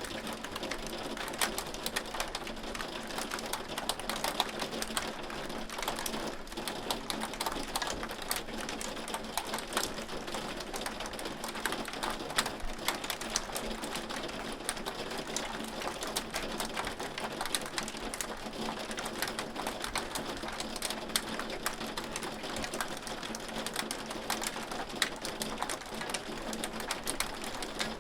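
Hail falling: a dense, unbroken patter of sharp clicks and ticks from hailstones striking, over a steady hiss.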